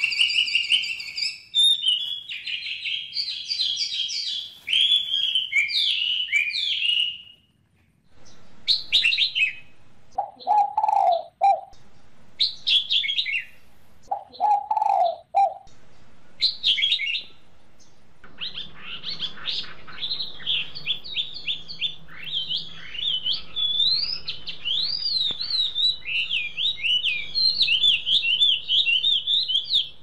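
Birds chirping and singing: high chirping phrases at first, then separate chirps with a lower, shorter call twice in the middle, and fast, continuous twittering through the second half.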